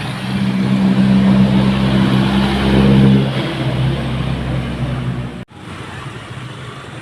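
Laden dump truck's diesel engine running hard as it passes close by, loudest over the first few seconds and then easing off. The sound cuts off abruptly about five and a half seconds in, leaving lower road noise.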